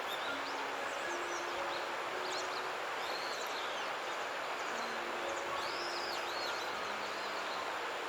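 Small birds giving short, arched, high chirps again and again over a steady outdoor hiss.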